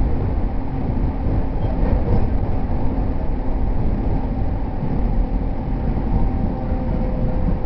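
Running sound inside a JR East E231 series 0 commuter train: a steady rumble of wheels on rail, with faint steady tones from the running gear.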